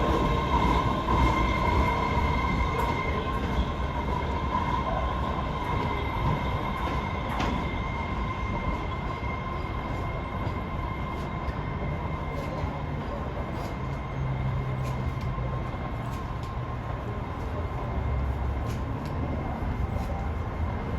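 Train running through the station with a steady rumble and a high-pitched whine or squeal held on one pitch; the whine is strongest for about the first ten seconds, then eases.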